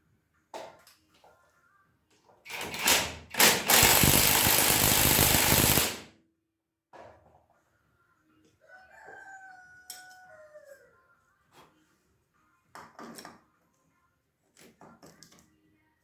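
Scattered clicks and knocks of parts being handled, broken by a loud, hiss-like rush of noise lasting about three seconds. Later comes a pitched call of about two seconds that falls in pitch at the end.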